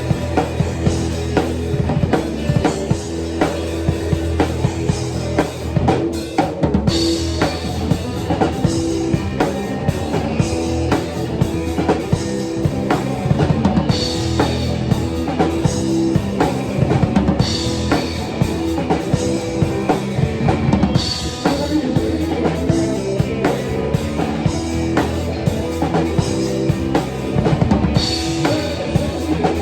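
Live rock band playing an instrumental passage, the drum kit to the fore with steady kick and snare hits over bass and guitar. Crash cymbals come in about every three and a half seconds, marking the phrases.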